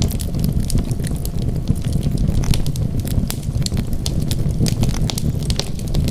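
Wood fire burning steadily, with irregular sharp crackles and pops over a low, continuous rumble of flames.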